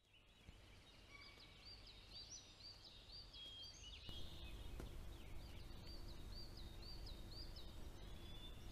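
Faint outdoor ambience with birdsong: a bird repeats a short rising chirp about three times a second in two runs, over a low steady hush.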